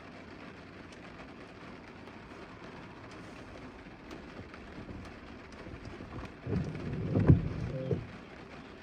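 Steady rain noise, with a louder low rumble lasting about a second and a half near the end.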